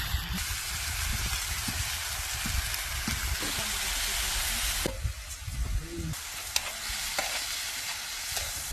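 Food frying in a pan over a campfire: a steady, dense sizzle that drops away sharply about five seconds in, leaving a fainter sizzle with scattered sharp clicks.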